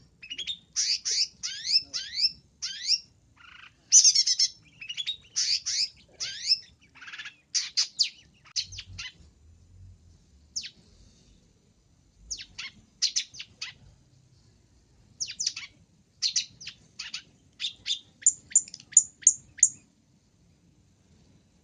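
Long-tailed shrike (pentet) calls used as a lure: rapid runs of sharp, falling chirps in bursts, a short lull partway through, then a quick series of very high short notes near the end.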